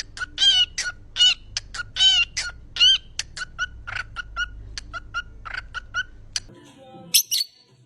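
Parrot giving a rapid run of short, repeated calls, about two to three a second, loud at first and then shorter and fainter. Near the end comes a brief, high, shrill squawk.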